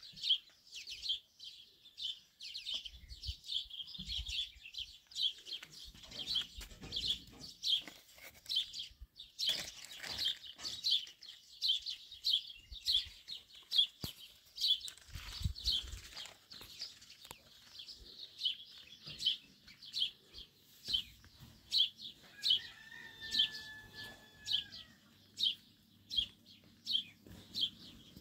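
A small bird chirping over and over, short high chirps at about two a second, with a few dull low knocks in between.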